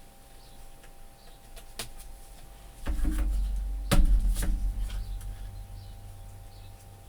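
Craft tools and paper pieces handled on a tabletop: scattered light clicks, then a low rumble about three seconds in, with two sharp clicks about a second later that slowly die away.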